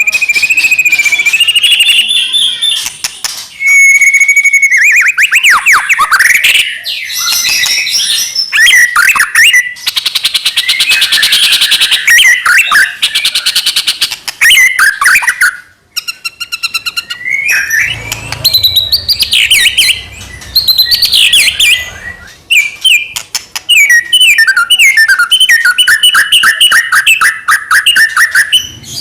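White-rumped shama singing in full, continuous song: a loud, varied run of clear whistles, rapid trills and quick rising and falling sweeps, with a brief pause about 16 seconds in.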